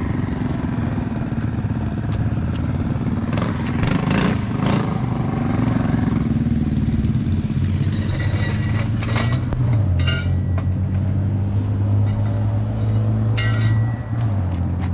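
Small minibike engine running, with its engine speed changing about ten seconds in and again near the end.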